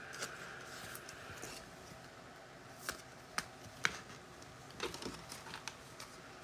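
Faint scattered clicks and light taps, about half a dozen, from small objects being handled on a desk.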